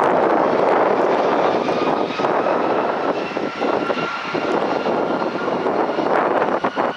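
Jet airliner's engines passing at an airport: a steady broad rushing noise with a faint steady high whine from about two seconds in.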